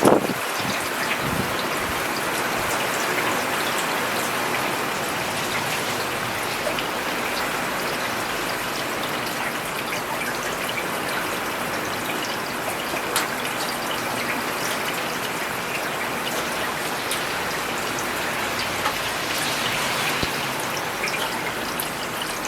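Steady rain falling on a paved road: an even hiss with fine patter from individual drops. A brief low thump right at the start.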